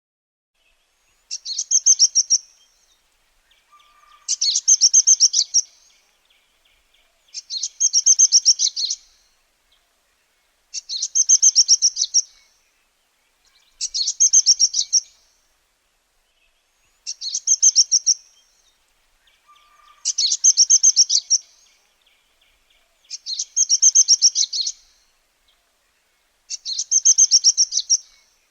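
Bar-winged prinia singing: a fast trill of high notes lasting about a second and a half, repeated about every three seconds, nine times over.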